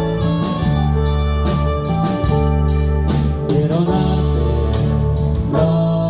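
Live church worship band playing: sustained bass and instrument notes under a steady beat of cymbal strokes, with a voice singing over it.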